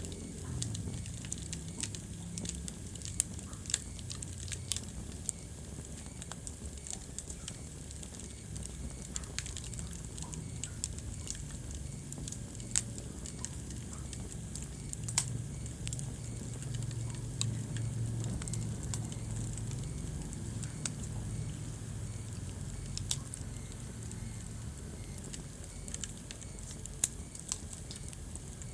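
Wood fire burning in a fireplace, crackling and popping at irregular moments over a low steady rumble of the flames.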